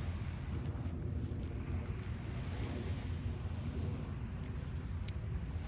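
Outdoor evening ambience: a steady low rumble, with a high insect chirp repeating in quick triples about every 0.7 s.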